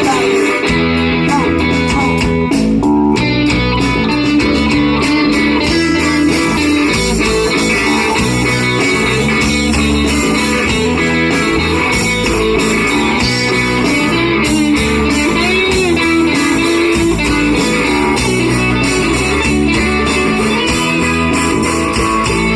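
Rock band playing live, an instrumental break led by electric guitar over bass and drums.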